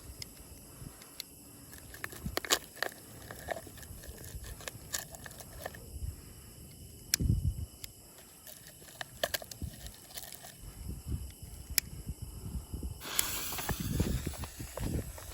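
Firework fountain burning, with scattered sharp crackling pops, then a steady hissing spray starting about 13 seconds in.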